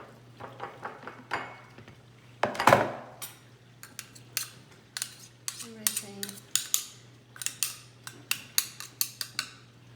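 A spoon clinking and tapping against a blender jar and a dish as blended food is scooped out, with a louder clatter about two and a half seconds in.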